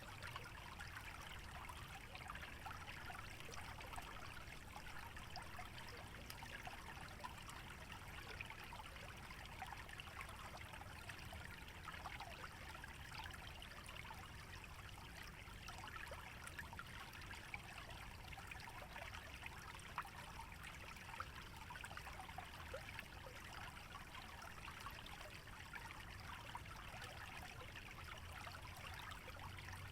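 Small stream trickling steadily, a continuous fine patter and babble of water over stones, with a faint low rumble underneath.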